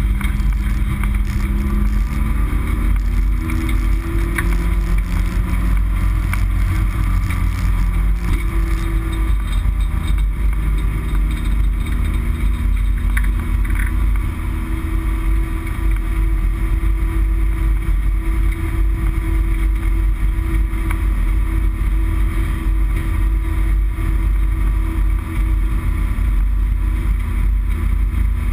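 Race car engine heard from inside the stripped cockpit, running steadily at part throttle with a heavy low rumble, its pitch slowly rising and falling.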